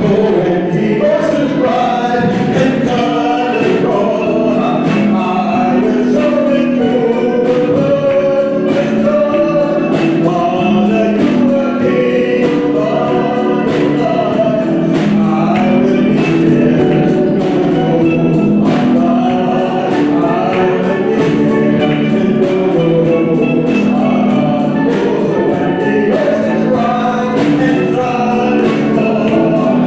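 Gospel choir singing over music with a steady beat.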